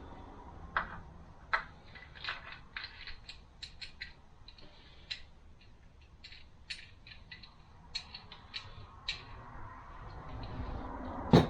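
Automatic transmission parts being handled on a workbench: a run of light, irregular clicks and ticks, then one louder knock near the end as a part is set down.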